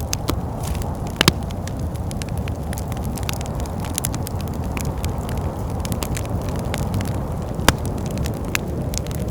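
Wood fire crackling in a fireplace, with irregular sharp pops, two louder ones about a second in and near the end, over a steady low rumble of wind.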